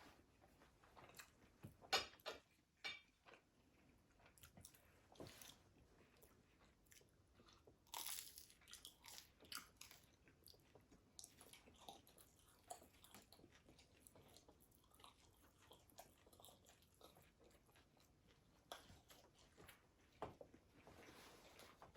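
Eating sounds picked up close: bites into crispy fried food and crunchy chewing, in irregular crackles. The sharpest bites come about two seconds in and again about eight seconds in.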